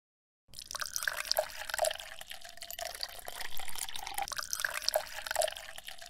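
Water pouring and dribbling out of a small tipped bucket, with a steady trickle and scattered drips; it starts abruptly about half a second in.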